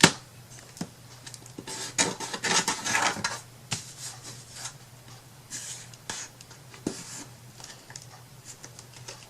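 Hands handling small craft pieces on a work table: scattered clicks and light knocks with bouts of rubbing and rustling, starting with a sharp click.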